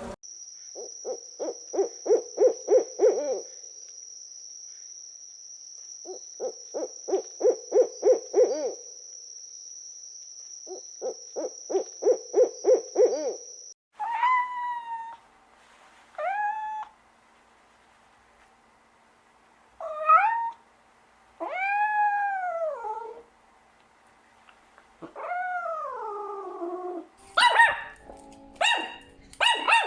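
Domestic cat meowing about six times, each meow rising and falling in pitch. Before it come three bursts of quick pulsed animal calls over a thin steady high tone. Sharp, short calls start near the end.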